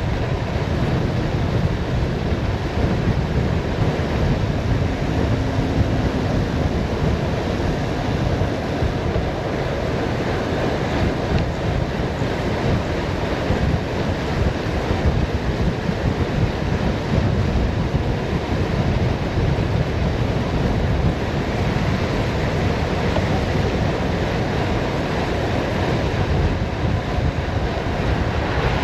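Steady wind rushing over the microphone during a fast downhill ride, with a low rumble of tyres on the road underneath.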